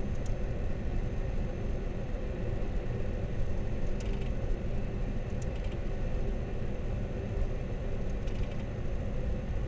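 Steady cockpit noise of a Dassault Falcon 20 business jet on final approach: a constant rumble of airflow and engine, with a few faint short ticks.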